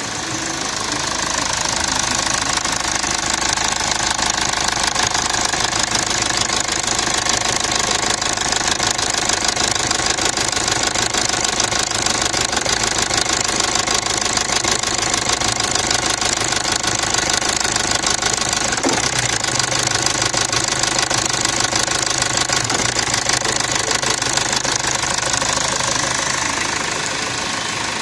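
BMW 320d diesel engine idling with a steady diesel clatter. Its low hum changes slightly about two-thirds of the way in, but the engine keeps running.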